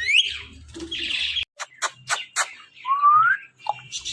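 Pet ring-necked parrots chirping and whistling: a rising whistle at the start, a run of short sharp chirps, and a second rising whistle about three seconds in.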